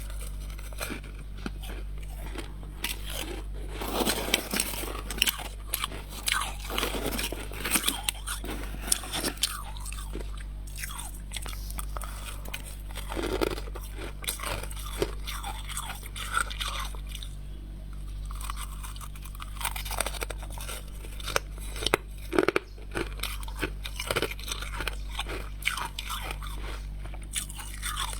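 Frost from a humidifier being bitten and chewed: irregular crisp crunches that come in clusters, over a steady low hum.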